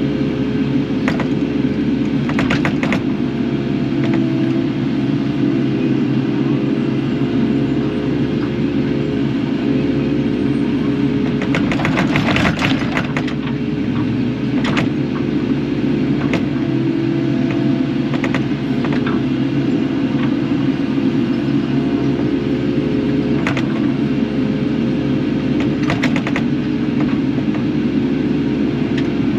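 Kubota KX080 excavator's diesel engine running steadily under work, with sharp knocks every few seconds and a cluster of them about halfway through.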